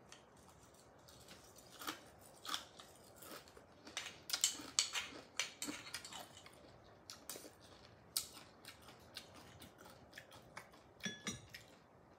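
A person chewing steamed oyster meat, heard as irregular short wet clicks and smacks of the mouth, busiest about four to five seconds in.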